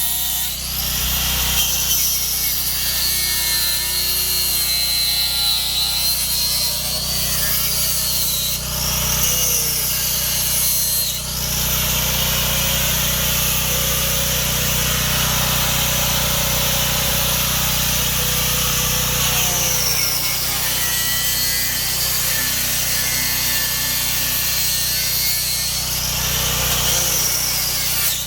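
Power saw cutting into a fibreglass boat transom, running steadily while its motor pitch sags and recovers several times as the blade bites.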